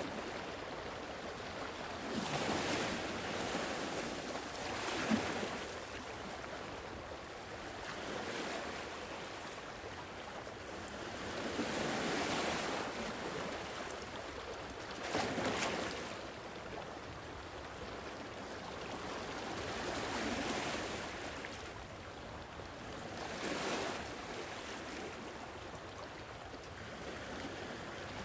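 Sea waves breaking on a shore: a swell of surf every three to four seconds over a steady wash of water.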